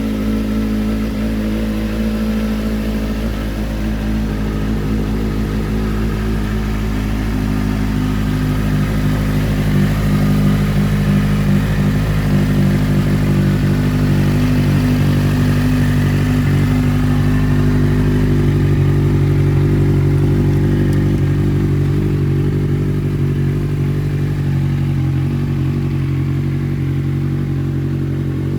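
Kawasaki Z800 inline-four motorcycle engine running at a steady speed, its pitch shifting slightly a couple of times.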